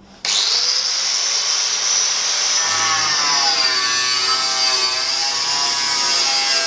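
Angle grinder cutting into a sheet-steel tub panel: a steady high whine that sags slightly in pitch under load. Background music comes in underneath about three seconds in.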